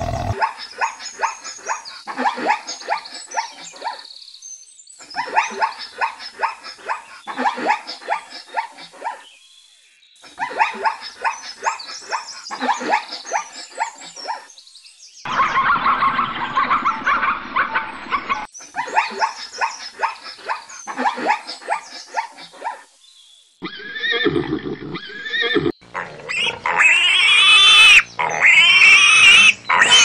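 Several animals call one after another. First come repeated bursts of rapid, rasping calls with short breaks between them, then a pitched call. Near the end come loud, high squeals from a pig that rise and fall.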